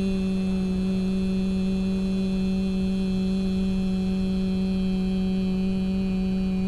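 A single long vowel held by a person's voice at a steady pitch: the French [i] sound, with the lips slowly pushed forward to round it into the French u sound [y].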